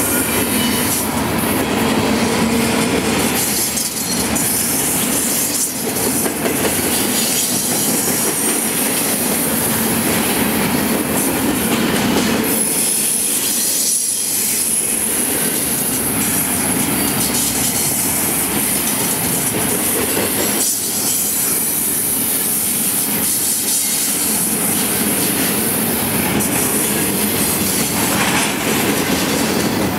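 Double-stack intermodal container well cars of a freight train rolling past close by: a steady heavy rumble of steel wheels on rail, with clatter over the rail joints. From about twelve seconds in a thin, high, steady wheel squeal rides on top.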